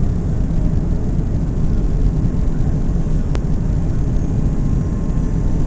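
Steady low rumble of an Airbus A330's engines and rushing air, heard inside the passenger cabin on the approach to landing, with a single faint click about three and a half seconds in.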